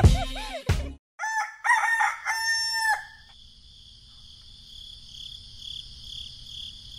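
A rooster crows once, a cock-a-doodle-doo in several drawn-out parts lasting about two seconds. After it comes a faint, steady high chirring of crickets.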